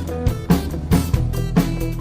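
Band playing a song: a drum kit keeps a steady beat with hits about every half second, over electric guitar and sustained bass notes.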